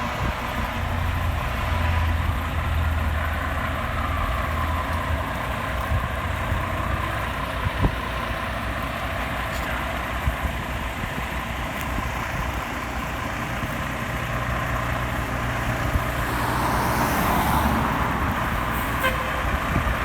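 Road traffic: a heavy vehicle's engine rumbles by in the first several seconds, with a faint siren gliding in the distance, and another vehicle swells past near the end.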